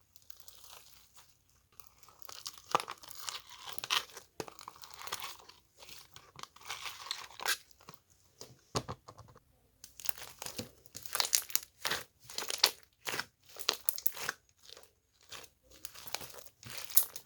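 Crunching and crinkling from something being handled: an irregular run of quick crackles and pops, sparse at first and denser in the second half.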